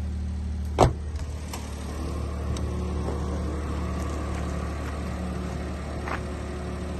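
Daihatsu Hijet kei truck's small three-cylinder engine idling steadily, with a sharp knock about a second in and a fainter click near six seconds.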